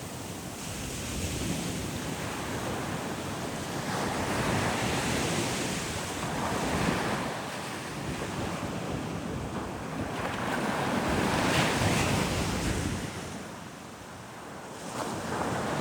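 Ocean waves breaking and washing up on a sandy beach, the surf swelling and falling away in slow surges, with wind buffeting the microphone.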